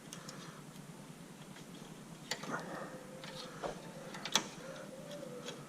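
Faint scattered clicks and taps of small metal clips and panel parts being handled on a tractor, with two sharper clicks about two and four seconds in.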